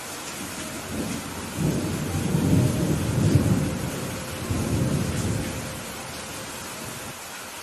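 Steady rain falling, with a low roll of thunder that swells about a second and a half in, rumbles on with a second swell, and dies away around six seconds in.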